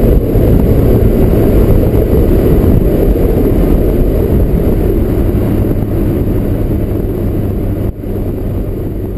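Mazdaspeed 3's turbocharged 2.3-litre four-cylinder, fitted with a big turbo, running loudly and steadily, slowly getting quieter toward the end with a brief drop in level near the end.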